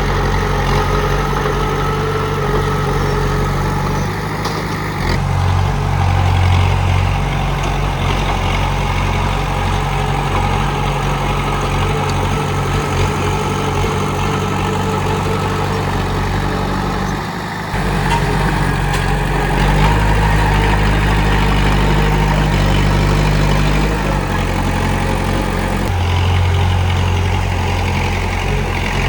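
Komatsu D31P bulldozer's diesel engine running under changing load. Its low drone steps up and down several times, dips briefly a little past halfway, then comes back louder.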